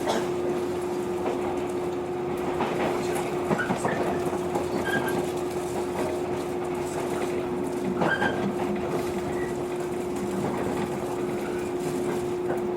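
Inside a JR 115 series electric train car standing at a station: a steady hum from the car's onboard equipment over a low background din, with a few faint clicks.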